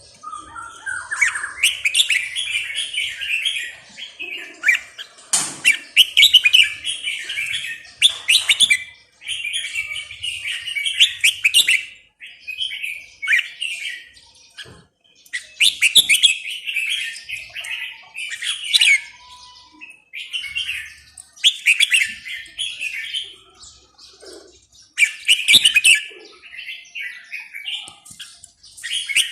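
A pet songbird singing: bright chirping phrases of one to two seconds, repeated again and again with short pauses between them.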